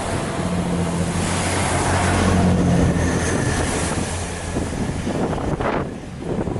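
A diesel train passing, its engine giving a steady low tone that is loudest in the middle and fades after about four seconds, with wind rumbling on the microphone.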